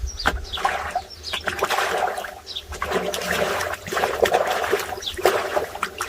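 Water splashing and trickling, with short bird chirps throughout.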